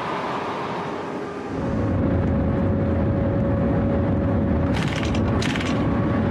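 A maglev train rushes past on its elevated guideway with a steady airy rush. About a second and a half in, this changes to the sound inside the moving train at speed: a loud low rumble with a steady hum, broken by two short hissing bursts near the end.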